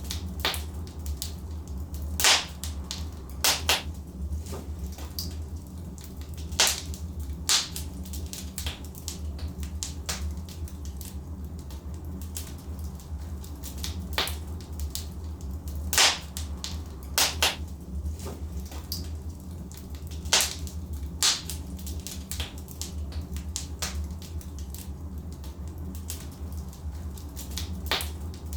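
Wood fire of logs burning in a fireplace, crackling with irregular sharp pops, a dozen or so of them louder than the rest, over a steady low rumble of the flames.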